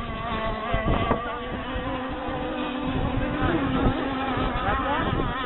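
Several radio-controlled model hydroplanes racing, their small two-stroke engines making a high buzz, with one engine's pitch briefly rising and falling about three and a half seconds in.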